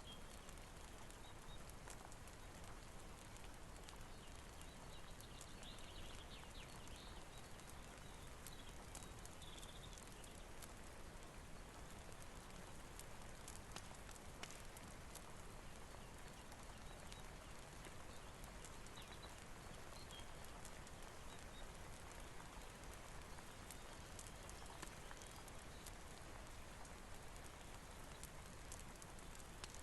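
Soft steady rain hiss mixed with a crackling fire, scattered sharp pops over an even wash of noise.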